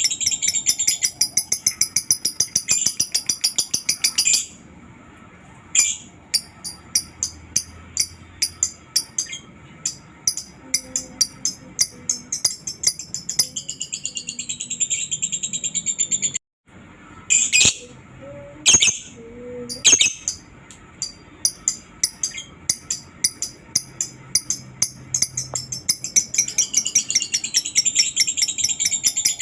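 Lovebird ngekek: a long, rapid chattering trill of shrill chirps, many a second, in long runs with short breaks. It cuts out abruptly for a moment about halfway through.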